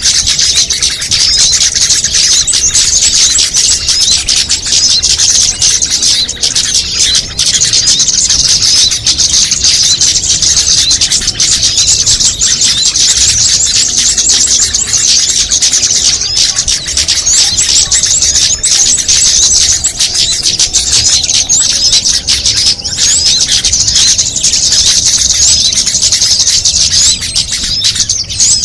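Dense, continuous chorus of many small songbirds giving rapid high chirps and twitters, all overlapping with no pause: a mixed bird-lure recording that combines the calls of many small bird species.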